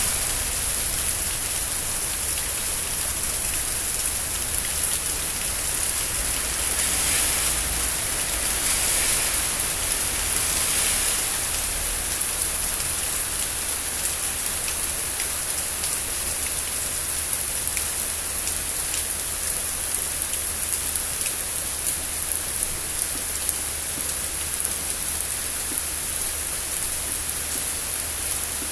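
Heavy rain falling steadily during a thunderstorm, growing heavier for a few seconds from about seven seconds in, then easing, with separate drop hits ticking through the second half.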